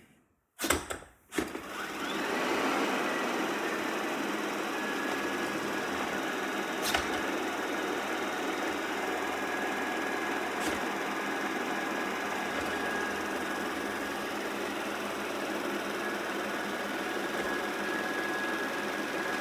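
Shark robot vacuum starting up about a second in, then running steadily with its suction motor and brushes whirring and a faint high whine. Two brief clicks are heard partway through.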